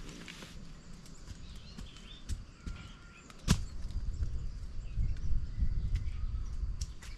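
Outdoor forest sounds: an uneven low rumble, scattered small clicks with one sharp knock about halfway through, and faint bird chirps.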